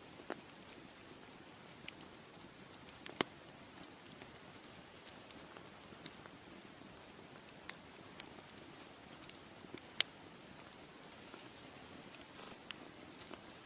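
Bonfire crackling: irregular sharp pops and snaps over a soft steady hiss, with two louder pops about three seconds and ten seconds in.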